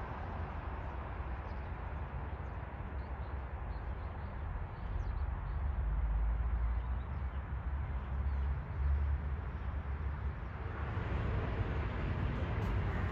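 Floodwater of an overflowing stream rushing steadily, with wind buffeting the microphone in low rumbles and faint bird chirps; the rush grows louder about ten seconds in.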